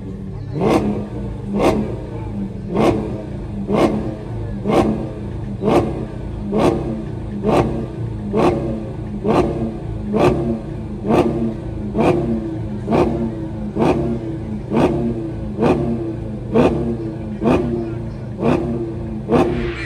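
Car engine revved over and over in an even rhythm, about once a second: each sharp rev falls back before the next, over a steady low drone.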